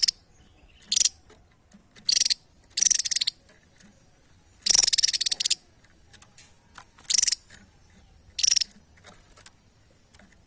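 A small songbird, kept as a masteran (song tutor), calling loudly in short, harsh, rapid trilled bursts, about seven of them at irregular gaps, the one in the middle longer than the rest, then it falls quiet about a second before the end.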